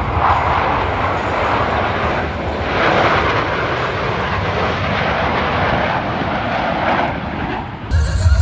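Aircraft engine noise from a flying display: a loud, rushing roar that swells and eases several times as the aircraft pass. Near the end it cuts off abruptly into music.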